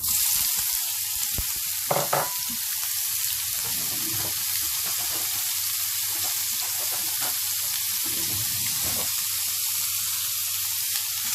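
Food frying in a hot pan: a steady sizzle that starts suddenly as the food goes into the oil, with a few knocks of the pan or utensil about two seconds in.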